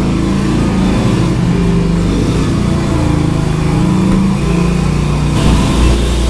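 Motorcycle engines running, their pitch rising and falling with small blips of the throttle.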